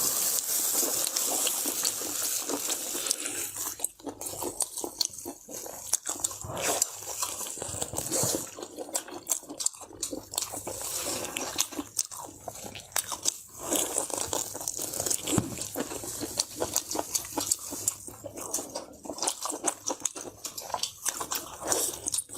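Close-up eating sounds: beef being bitten and chewed, with irregular wet clicks and smacks of the mouth. For the first few seconds they sit over a steady hiss.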